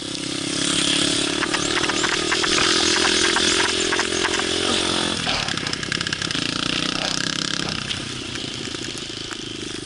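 Small single-cylinder pit bike engine running at a steady high buzz, then the revs drop about five seconds in and it runs lower and quieter. The rider says the bike is not running well.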